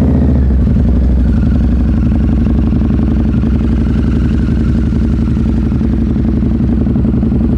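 2013 Harley-Davidson Night Rod Special's 1250cc liquid-cooled V-twin, breathing through an aftermarket 2-into-1 header, idling steadily just after start-up; it settles to an even idle in the first half second.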